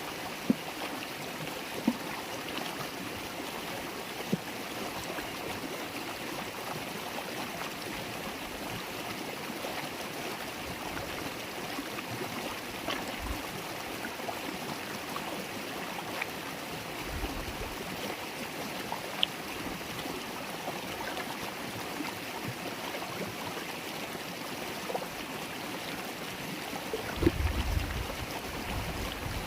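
River water babbling and gurgling steadily over stones, with a few faint clicks. Near the end, low rumbling bumps come in under the water sound.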